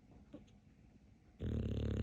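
Dog snoring: after a quiet stretch, one loud, drawn-out snore starts about one and a half seconds in.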